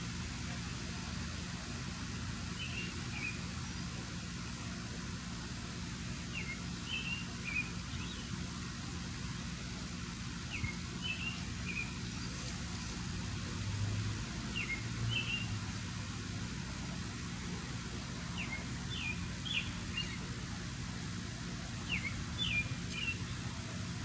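Steady low mechanical drone of an industrial plant's grinding noise, with a small bird giving short, quick chirps in twos and threes every couple of seconds.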